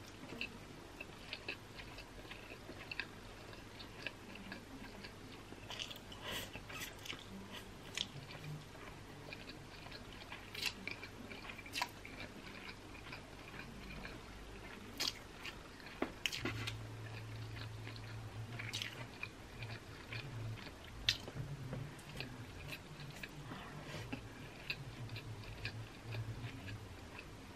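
Close-miked chewing and wet mouth sounds of a person eating thick stir-fried yakisoba noodles, with scattered sharp clicks.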